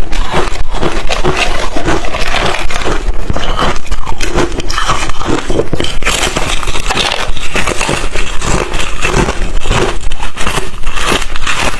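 Crushed, refrozen ice chips being bitten and chewed close to the microphone: a dense, continuous run of loud, irregular crunches.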